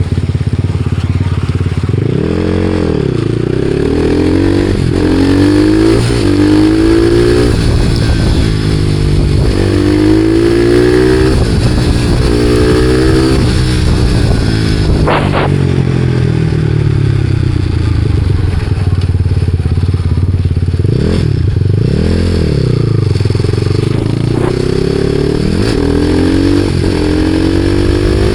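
Supermoto motorcycle engine under way, accelerating in repeated climbs in pitch, each cut short by a drop as the rider shifts up, with a steadier cruise in the middle. A single sharp click is heard about halfway through.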